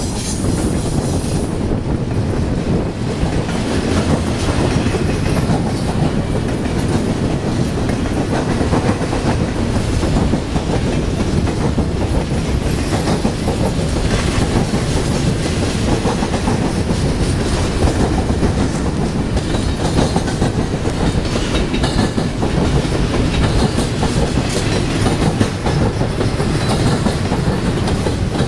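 Double-stack intermodal freight train's well cars rolling past at close range: a steady, loud rumble of steel wheels on rail with irregular clacks from the wheels.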